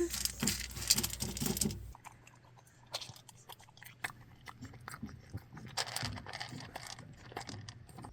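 Crunchy chewing: bites into something crisp, dense at first and then sparser after a sudden drop in background noise about two seconds in.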